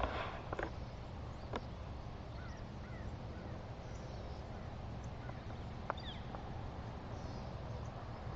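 Quiet outdoor ambience: a steady low background hum with a few faint, distant bird chirps and an occasional light click.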